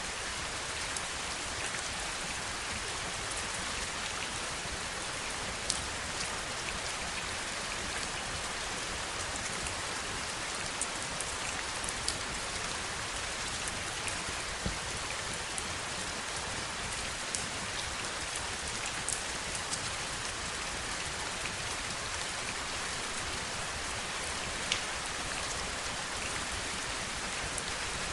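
Steady heavy rainfall, an even hiss with scattered sharper ticks of individual drops striking a surface.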